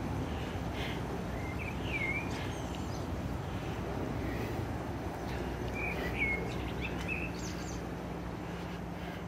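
Small birds chirping in two short bursts, about two seconds in and again around six seconds, over a steady low rumble of background noise. A steady low hum comes in near the end.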